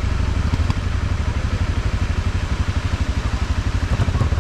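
Off-road motorcycle engine running steadily at low revs, with a fast, even exhaust pulse.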